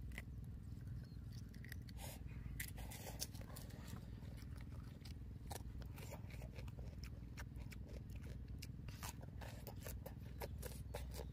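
A child chewing roast chicken and biting into raw cucumber close to the microphone: many short, irregular crunching clicks over a low steady hum.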